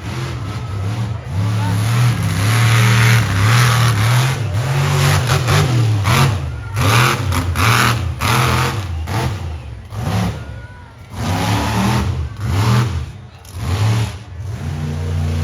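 Monster truck engine revving hard in repeated bursts of throttle, the pitch rising and falling, with brief drops off the throttle in between.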